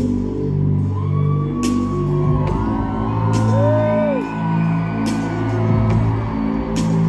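Live synth-pop music over a stadium sound system: held synth bass notes with a sharp percussive hit about every second and a half. Crowd members whoop over it in rising and falling cries.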